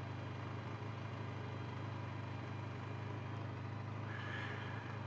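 Benelli TRK 502X's parallel-twin motorcycle engine running steadily at low revs, with an even hum and no revving.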